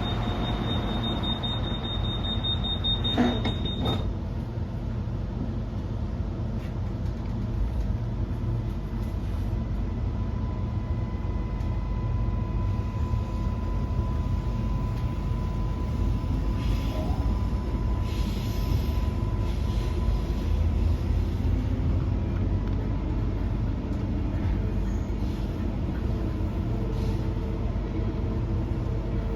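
Door-closing warning beeps from the Queensland Rail NGR 700 series electric multiple unit for about four seconds, ending with a knock as the doors shut. The train then moves off and runs with a steady low rumble, with a faint steady whine from about ten seconds in.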